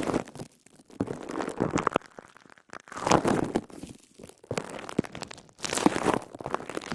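Wet crisp sponge squeezed again and again, crackling and squelching in about five separate squeezes with short pauses between them.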